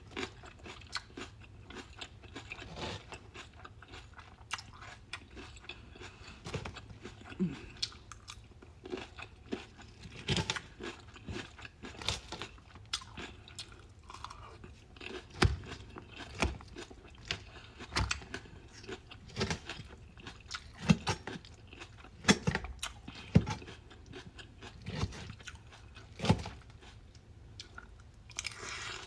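Close-up chewing and biting of a raw vegetable salad: irregular wet crunches and clicks, a louder crunch every second or two.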